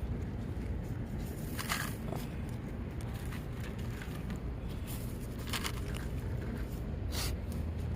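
Steady low outdoor rumble with three short crackling noises: one near two seconds in and two more in the second half.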